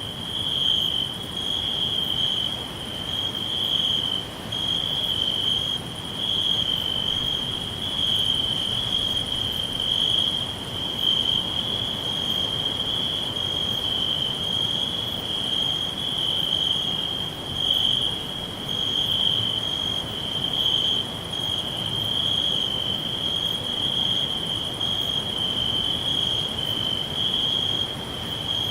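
Crickets chirping in a steady, high-pitched trill that swells and fades slightly about once a second.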